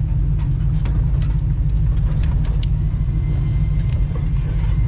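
Ford car being driven, heard from inside the cabin as a steady low rumble, with a few scattered clicks in the first half.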